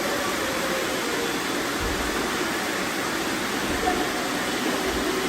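Robot vacuums running, a steady whooshing hum of their suction fans and brushes as they clean up confetti.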